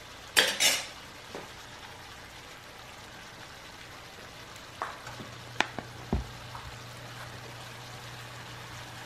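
Saltfish, onions and sweet peppers sizzling steadily in a skillet, with two short rattles about half a second in as spices are shaken over the pan, and a few light clinks and knocks around the middle.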